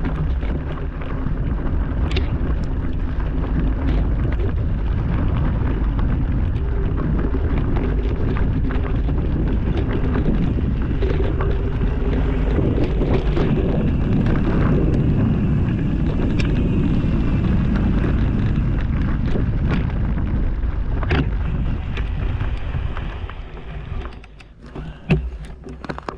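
Wind buffeting the microphone over a steady low rumble, with scattered sharp rattles and knocks, as of a bike moving fast over a rough trail. It dies down sharply about three seconds before the end, with a last few knocks.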